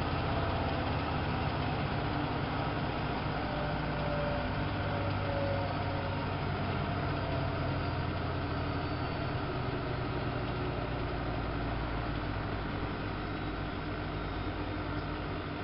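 Siemens Siwamat IQ-series washing machine spinning its drum: a steady motor hum and drone with low steady tones, the level falling slowly.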